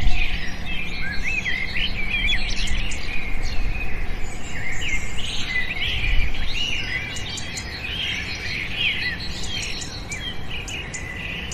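A dense chorus of many small birds chirping, full of short overlapping chirps that quickly rise and fall in pitch, over a low background rumble.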